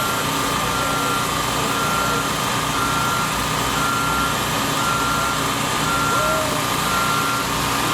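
A vehicle's reversing alarm beeping steadily about once a second over the continuous hum of an engine running.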